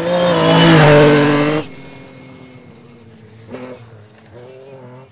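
Lancia Stratos rally car's V6 engine at full throttle, loud and rising in pitch, then cut off sharply about a second and a half in. A much fainter engine note follows, with one short blip of revs near the middle.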